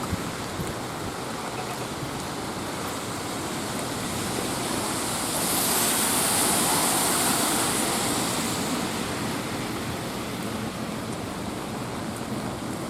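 Light rain and wet-street noise, steady throughout. A few seconds in, a vehicle passes on the wet road: a tyre hiss swells, then fades over about four seconds.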